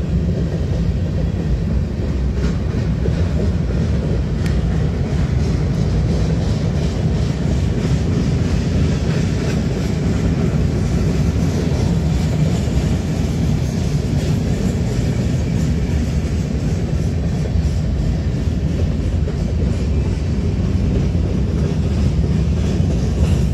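BNSF manifest freight train's mixed cars rolling past: a steady rumble of steel wheels on rail, with light clicking over it.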